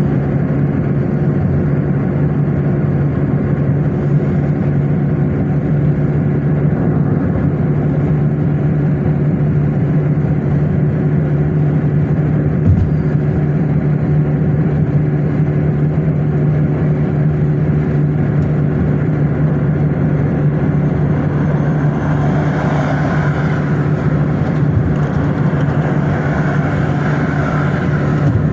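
A car driving at a steady speed: continuous engine and road noise with a steady low hum. A higher rushing noise joins in for the last several seconds.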